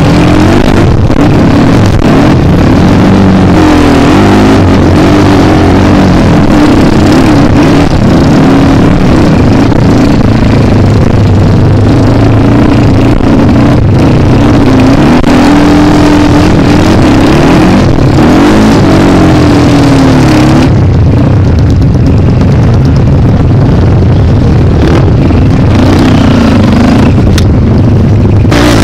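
Kawasaki KLX dirt bike's single-cylinder engine running hard, its pitch rising and falling again and again with the throttle, under a loud rushing noise that eases somewhat about 21 seconds in.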